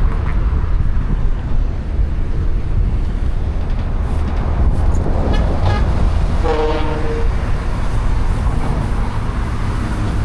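A horn sounds once for about a second, a little past the middle, over a steady low rumble of passing vehicles.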